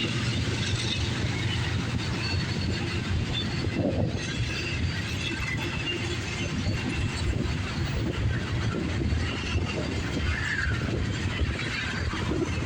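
Intermodal freight cars rolling past on the rails: a steady rumble of wheels on track with rapid, irregular clicking and a few faint, brief high squeals.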